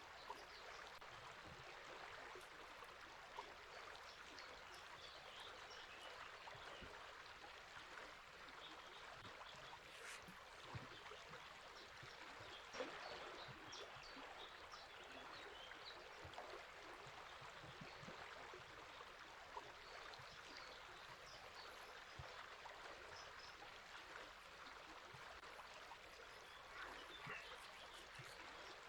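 Faint, steady rush of flowing river water, with brief bird chirps scattered over it.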